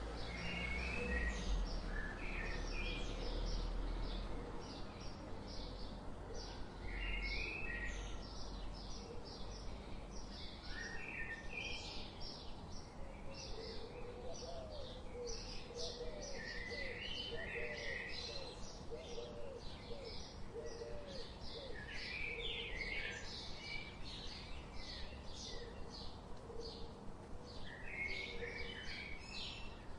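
Several wild birds chirping together: a steady stream of quick, high chirps, with lower warbled phrases coming and going. A low rumble sits under the first few seconds.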